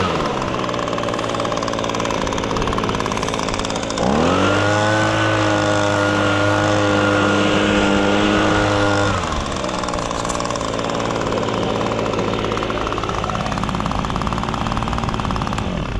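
Echo PB250 handheld leaf blower's 25.4cc two-stroke engine running at idle, revved to full throttle about four seconds in and held there for about five seconds, then dropped back to idle, and shut off right at the end.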